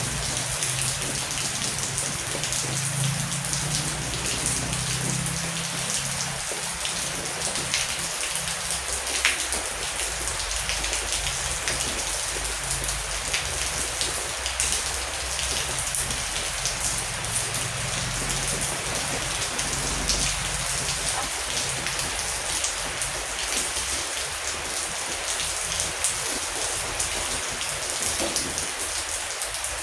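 Heavy rain falling steadily, a dense hiss with individual drops splashing through it, and a low rumble underneath in the first few seconds.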